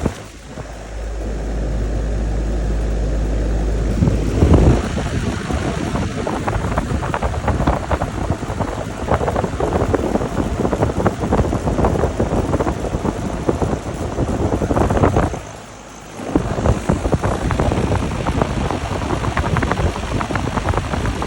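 Outdoor air-conditioner condenser units running, a steady fan and compressor whoosh, overlaid by rough wind buffeting on the microphone that rumbles hard for the first few seconds and briefly drops away twice.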